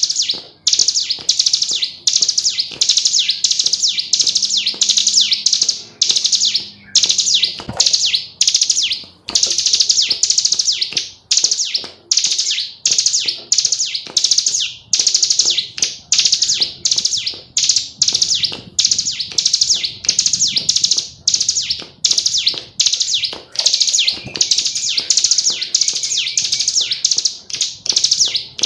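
Female ciblek gunung (a prinia) singing: rapid, high-pitched chirps in dense bursts broken by short pauses, the busy continuous calling that keepers call gacor.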